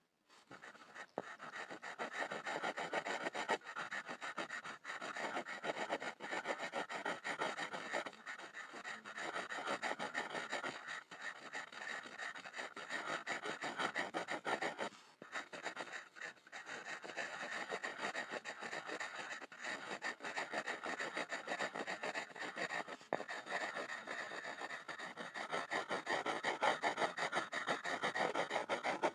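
Pencil scribbling on a wooden board: continuous quick scratching strokes of graphite on wood, with a brief pause about halfway through.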